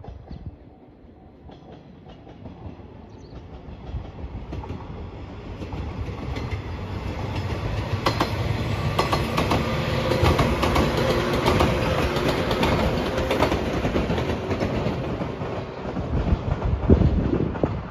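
A yellow 115-series electric local train passing, its wheels clicking over the rail joints. The sound swells, is loudest as the train goes by mid-way, then fades as it draws away, with a brief loud thump near the end.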